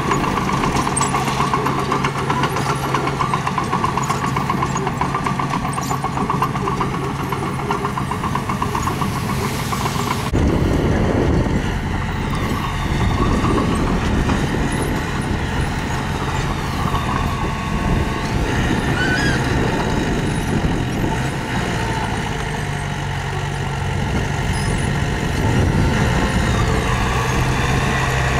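Heavy-machinery diesel engine running steadily while working, with an abrupt change in the engine sound about ten seconds in.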